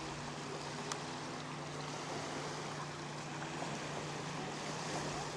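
Engine of a radio-control model seaplane in flight, running at a steady pitch over a wash of wind hiss.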